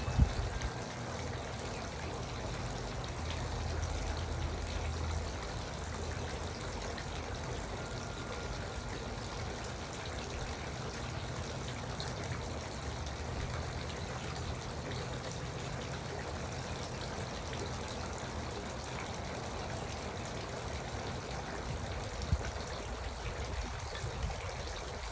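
Garden water fountain trickling and splashing steadily, over a low hum. A sharp thump sounds just after the start, and two smaller knocks near the end.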